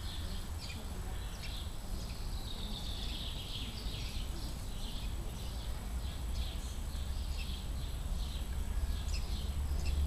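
Small birds chirping in quick, high calls over a steady low rumble, with one longer falling call about three seconds in.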